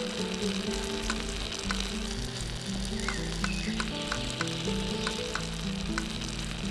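Maggi noodles in sauce sizzling in a miniature steel pot, with light clinks of a tiny spoon against the pot as they are stirred, mostly in the second half.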